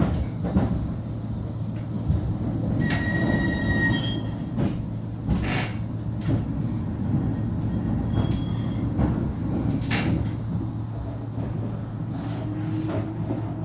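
Flexity tram running on the rails with a steady low rumble, a brief high wheel squeal about three seconds in, and a few sharp knocks.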